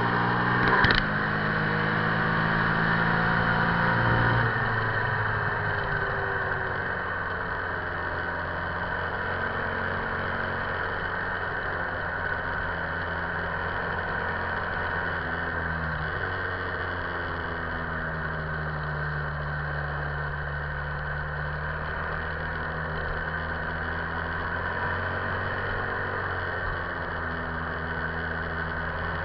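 Buell XB9SX's air-cooled 984 cc V-twin engine running at cruising revs at highway speed, under a steady loud rushing noise. A brief knock comes about a second in. The engine note drops a few seconds in, and later sags and climbs back as the throttle eases and opens.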